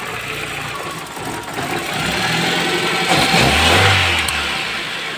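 Toyota Corolla 16-valve petrol engine running just after being started, with a brief rise in revs about three seconds in that settles back toward idle near the end.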